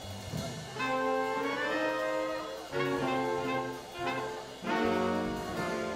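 Swing band with saxophones, trumpet and trombone playing the slow instrumental introduction to a ballad: held horn chords that move every second or so over upright bass and drums.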